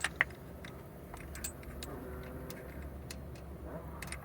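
Light metallic clicks and clinks of tools and a bolt being handled while fitting a timing belt tensioner, with two sharper clicks right at the start and scattered fainter ones after, over a steady low hum.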